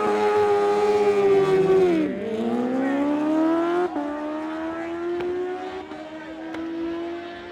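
Superbike engine at full throttle on a drag run, its note climbing through the revs, with two upshifts about two and four seconds in where the pitch drops sharply, then a slow climb as it fades into the distance.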